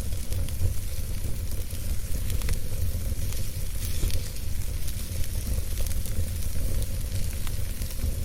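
Wood campfire burning, with scattered soft crackles and small pops over a steady low rumble and hiss.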